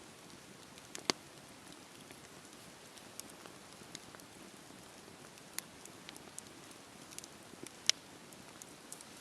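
Wood fire crackling: a soft steady hiss with scattered sharp pops and snaps, the loudest about a second in and near the end.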